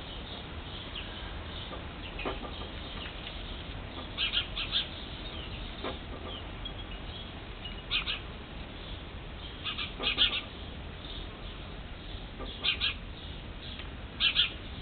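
Short, high bird chirps in quick little clusters every couple of seconds, with a few faint clicks between them over a steady low hum.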